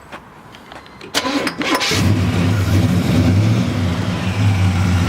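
A 1972 Chevrolet C10's 350 V8, with a mild cam, headers and Flowmaster dual exhaust, is cranked by the starter for about a second and catches about two seconds in, then settles into a steady idle.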